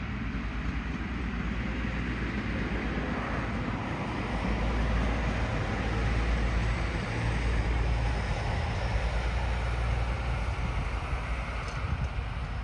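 Diesel train passing close by: a steady low engine rumble mixed with the rolling noise of the wheels on the rails, growing a little louder midway.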